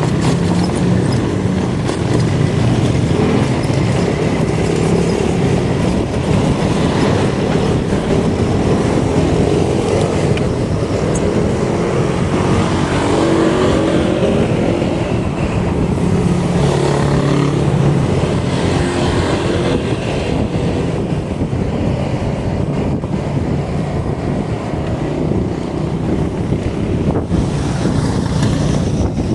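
Steady rushing wind and road noise picked up on a camera riding along on a moving bicycle.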